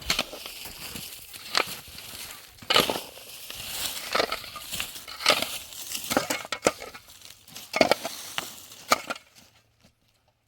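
Repeated crunching strikes and scrapes, irregular and about one a second, that stop abruptly near the end.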